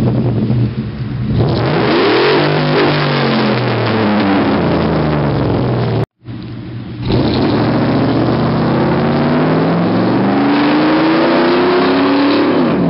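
2008 Chevrolet Tahoe's V8 running through a custom exhaust with an ECU tune, revving: the pitch rises and falls once early on, the sound cuts out briefly about six seconds in, then the revs climb slowly for several seconds and drop off at the end.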